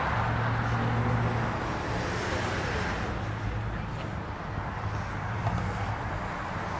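A car engine running steadily with a low hum, over the even noise of road traffic; the hum is strongest in the first second or so, then eases.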